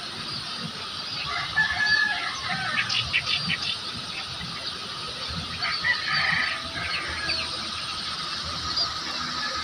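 Birds calling: scattered short chirps, busier about two seconds in and again around six seconds, over a steady faint outdoor background.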